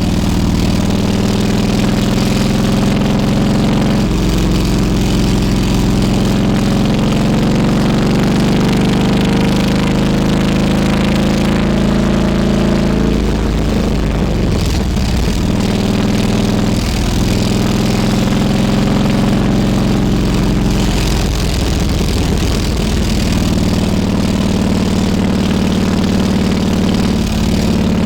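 Harley-Davidson Road King Classic's V-twin engine running steadily while the bike is ridden, its pitch rising and falling slowly several times, under a steady rush of noise.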